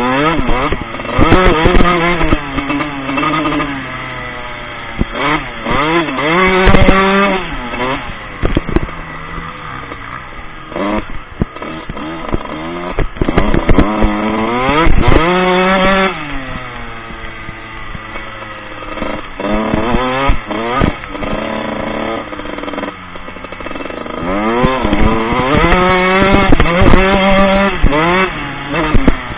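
Four-stroke motocross bike engine revving hard in repeated rising sweeps, with the pitch dropping back between them as the rider accelerates, shifts and rolls off the throttle. Scattered knocks run through it.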